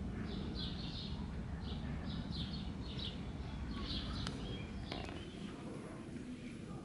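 Small songbirds chirping in quick repeated clusters, stopping about two-thirds of the way through, over a steady low rumble.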